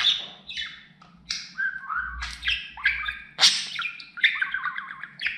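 Budgerigar chattering and warbling: a quick run of short chirps, squawks and gliding warbled notes.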